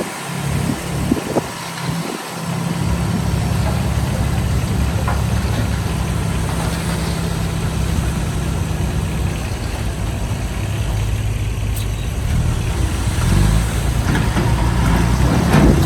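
Heavy diesel engine of earthmoving machinery running steadily under load, its note shifting about two-thirds of the way through and rising near the end.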